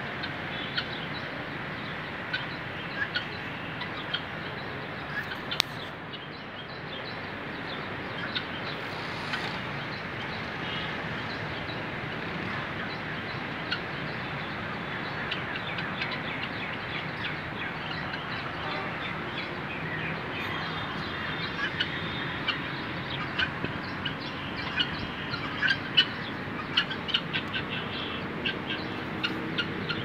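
Birds chirping and calling in many short notes, more often in the second half, over a steady background rush.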